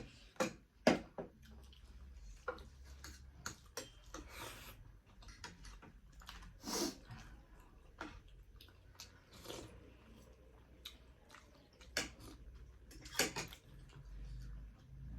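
Eating noodles and momos close to the microphone: scattered short clicks and smacking mouth sounds, with one longer slurp-like sound about seven seconds in.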